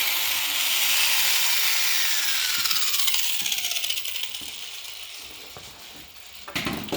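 Angle grinder switched off and spinning down: its whine falls steadily in pitch and fades over about four seconds. A clunk near the end.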